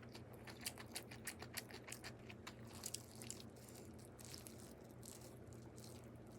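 A quick run of small, sharp clicks and ticks, about three or four a second, dying away after about three seconds into faint room hum.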